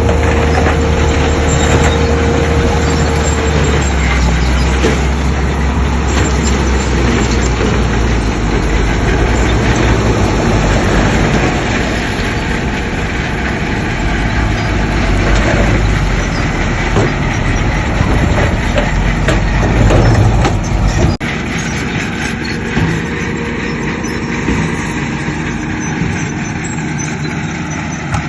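Heavy diesel earthmoving machinery running, with a deep, loud engine sound and a steady tone that stops about four seconds in. About three-quarters of the way through, the deep engine sound drops away abruptly and lighter machine noise carries on.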